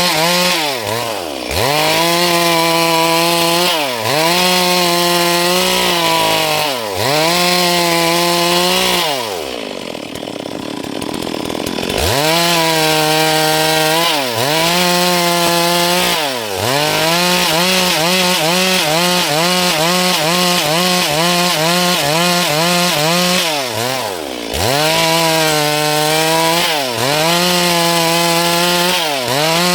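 A Stihl MS 382 two-stroke chainsaw running at high revs while cutting dry wood. Its pitch dips briefly and climbs back every couple of seconds as the throttle is eased and reopened. Near the middle it falls toward idle for about two seconds before revving up again.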